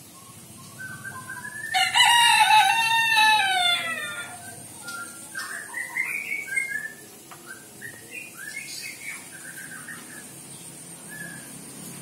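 A bird calling: one long, loud pitched call of about two and a half seconds, starting near two seconds in and dropping in pitch at its end, followed by a string of shorter, softer calls.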